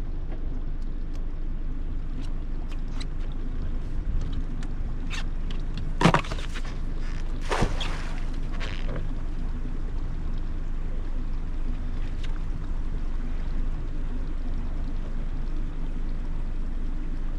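A boat motor running steadily, with a sharp knock about six seconds in and a smaller one about a second and a half later.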